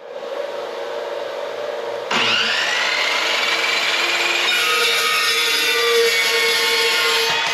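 A power tool working steel: it runs steadily, then about two seconds in it bites in much louder, with a screeching tone that rises in pitch and then holds.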